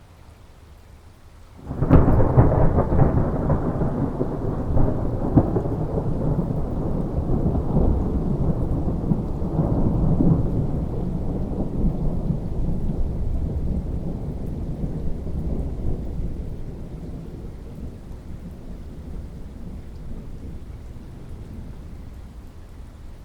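Thunder over steady rain: a sudden loud clap about two seconds in, then a long rolling rumble with a few sharper cracks that slowly dies away over the next fifteen seconds or so.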